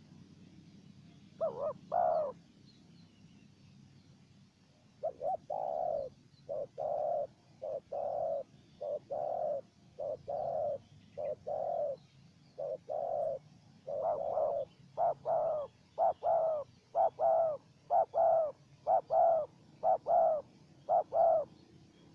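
Spotted dove cooing. There are two coos about two seconds in, then from about five seconds a long series of repeated coos that comes faster and louder toward the end.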